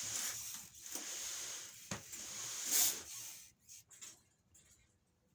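A steady high-pitched hissing noise, loudest just before three seconds in, then dying away to near quiet.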